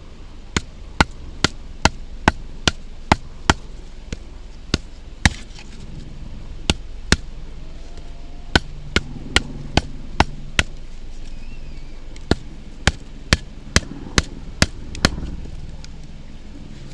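Batoning: a Mora knife's spine struck again and again with a baton to drive the blade into a hard log, in runs of quick sharp knocks about two to three a second with short pauses between runs. The wood is hard and is not splitting.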